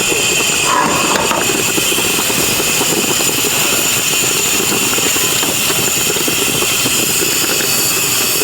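A steady, loud rush and hiss of steam from dumpling and steamed-bun steamers at full boil.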